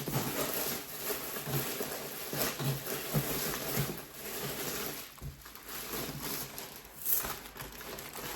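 Irregular rustling and crinkling of plastic packaging and fabric being handled, as clothes are unwrapped from their bags.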